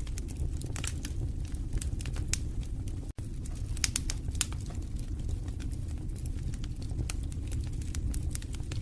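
Fireplace fire crackling, with a steady low rush of flames under frequent irregular sharp pops and snaps. The sound cuts out for an instant a little after three seconds.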